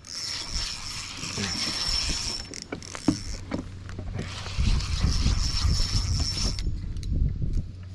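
Spinning fishing reel whirring in two stretches, about three seconds and then about two seconds, with a short pause between them, while a hooked channel catfish is fought on the line.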